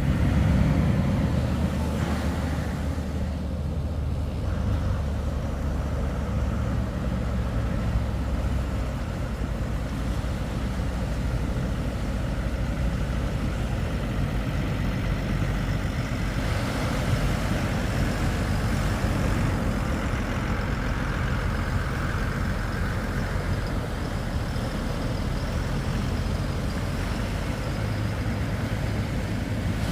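Engines running steadily over a constant wash of wind and surf noise. The engine drone is strongest in the first several seconds.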